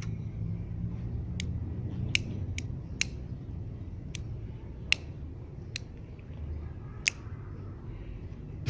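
Kitchen lighter being clicked over and over, eight or so sharp, irregularly spaced clicks, over a steady low rumble of wind or handling noise.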